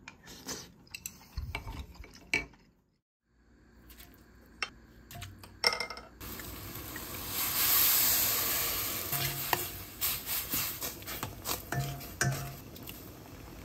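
Food frying in a hot pan: after scattered knocks and clinks of a utensil on cookware and a brief drop-out, a sizzle starts about six seconds in, swells and holds steady, with the clinks and scrapes of a utensil stirring through it.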